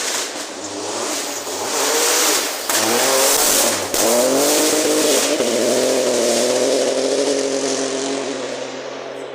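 Rally car passing on a gravel forest stage, engine at high revs. It gets louder with the pitch rising, breaks briefly about four seconds in, then holds a high steady note and fades as it goes away. A hiss of tyres and gravel is loudest as it passes.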